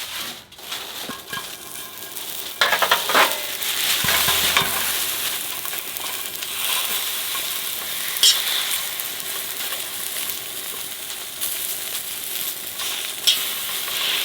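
Jeon (Korean pancakes) sizzling in oil in a frying pan, the sizzle building up about two and a half seconds in and holding steady. A few sharp clicks from the pan or utensils are heard along the way.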